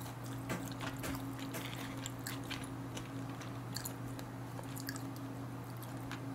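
Faint mouth sounds of someone chewing food close to the microphone, with scattered small clicks, over a steady low hum.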